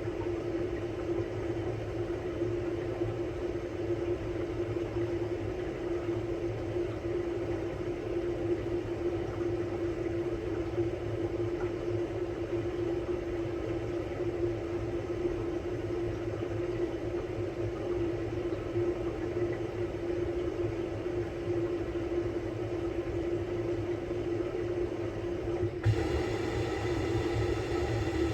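Samsung Bespoke Grande washing machine running on its quick-wash cycle: a steady motor hum over a low rumble. About two seconds before the end the sound shifts and becomes brighter, with more hiss and higher tones.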